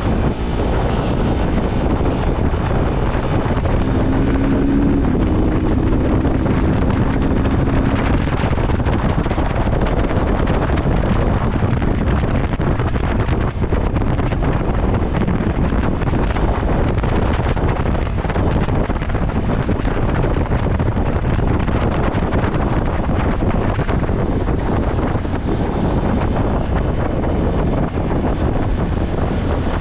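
Steady wind rushing over the microphone of a moving motorcycle, with the bike's running noise underneath; a brief low steady hum comes in about four seconds in.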